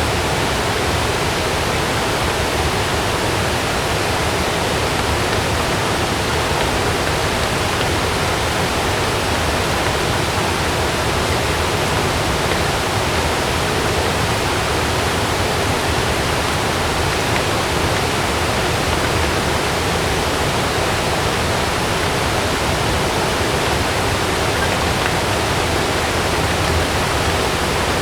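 Heavy rain falling steadily on a camping tent, a dense even hiss with no thunderclap.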